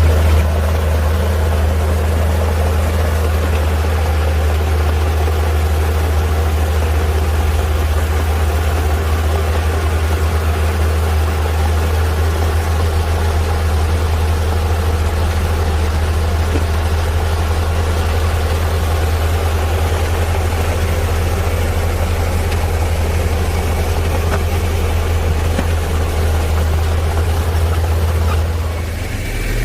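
Heavy diesel engine of earthmoving machinery running steadily with a deep, even hum; the sound dips and shifts near the end.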